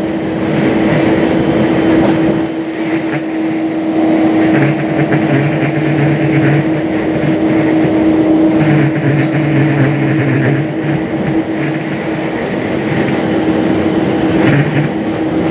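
Steady engine and road noise heard from inside a moving airport bus, with a constant hum and a lower drone that comes and goes every few seconds.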